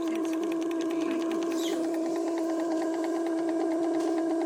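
Small steam mill engine running at speed: a rapid, even mechanical clatter over a steady hum.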